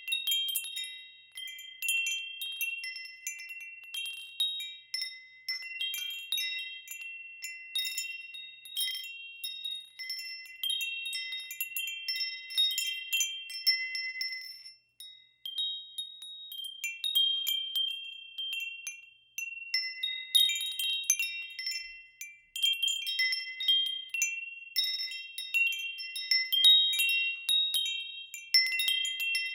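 Wind chimes ringing, struck at irregular moments so that several high tones overlap and ring on, with brief lulls about halfway through.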